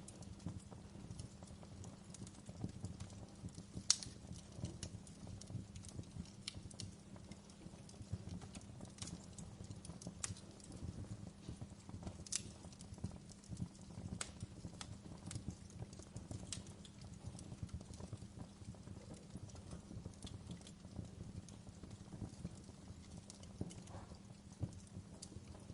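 Wood fire burning in a fireplace: a low steady rumble of flames with irregular crackles and sharp pops, the loudest pop about four seconds in and another near twelve seconds.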